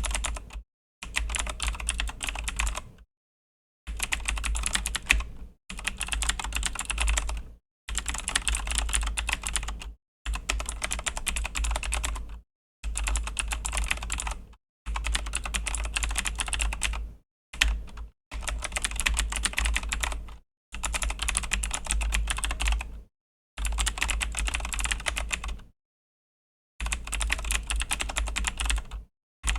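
Fast typing on a Razer BlackWidow V3 mechanical keyboard with Razer Green clicky switches: dense runs of key clicks lasting a second or two, broken by short silent pauses.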